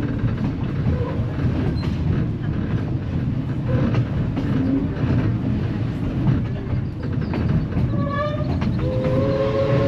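Steady rumble and clickety-clack of a narrow-gauge East Broad Top passenger car rolling along, heard from on board. About nine seconds in, the train's whistle starts a long steady blast.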